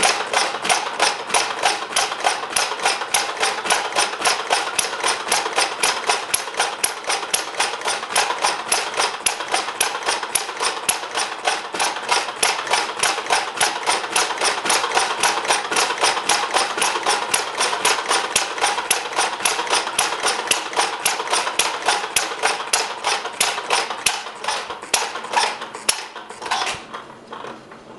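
Replica of Henry Ford's single-cylinder kitchen sink engine running on its first start, firing in a fast, even run of sharp knocks. Near the end the firing weakens and the engine stops.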